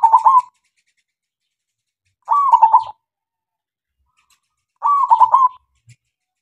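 Male zebra dove (perkutut) cooing: three short phrases about two and a half seconds apart, each a quick run of notes. The first phrase is already under way at the start.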